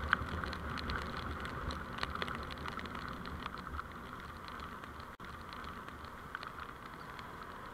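Steady road noise from a moving vehicle picked up by a dashcam, with many small scattered ticks. The sound drops out for an instant about five seconds in.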